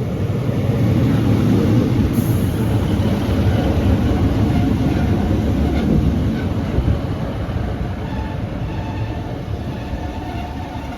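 Northern Class 156 diesel multiple unit pulling into the platform: a low rumble of engine and wheels on rail, loudest in the first seven seconds, then easing as the train slows to a stand.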